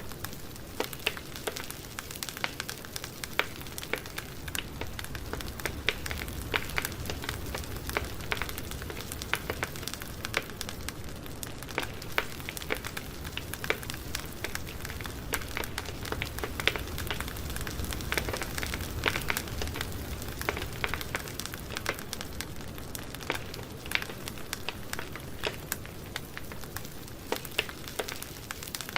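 Campfire crackling, with frequent irregular sharp pops over a steady low rush.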